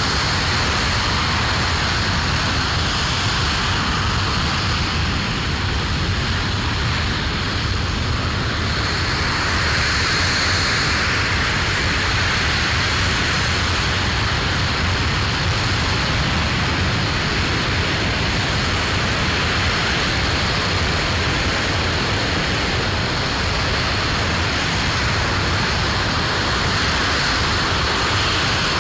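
Aerojet Rocketdyne RS-25 liquid-hydrogen/liquid-oxygen rocket engine firing steadily on the test stand: a loud, continuous noise across low and high pitches, with no break or change.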